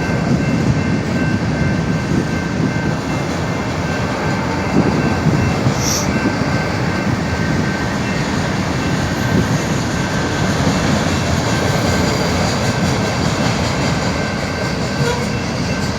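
Norfolk Southern freight train rolling past, a steady rumble of wheels on rail, slowing down, with a few faint steady high-pitched tones over it.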